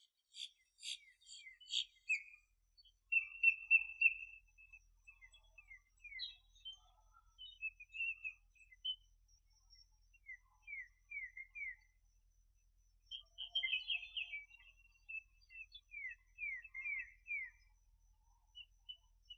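Small birds chirping in bursts of short notes and quick downward-slurred whistles, with a few sharp clicking notes in the first two seconds.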